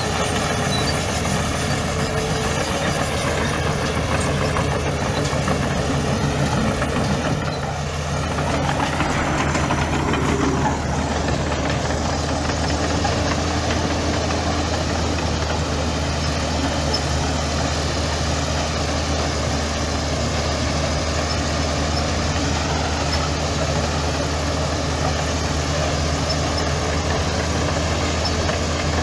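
Heavy diesel engine running steadily, with a brief dip and then a swell in engine note about eight to eleven seconds in.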